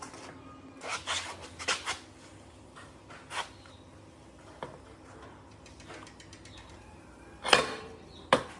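A series of irregular knocks and clatters, a cluster of them about one to two seconds in and the loudest pair near the end.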